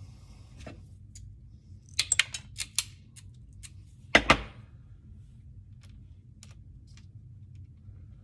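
A quick run of five sharp clicks about two seconds in, then a louder knock about two seconds later, with a few faint ticks, from craft tools and material being handled while cutting shapes. A low steady hum runs underneath.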